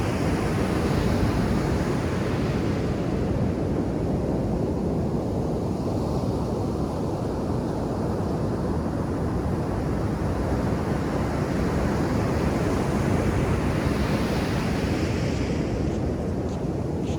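Ocean surf breaking and washing up a sandy beach in slow swells, the hiss of the wash rising around six seconds in and again near the end, with a low rumble of wind on the microphone underneath.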